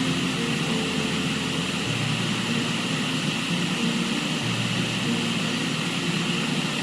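Steady rushing of a river, with soft background music of slow, held low notes that change every couple of seconds.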